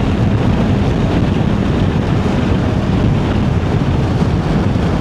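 Wind rushing over the microphone on a moving motorcycle, with engine and road noise underneath. The noise is loud and steady.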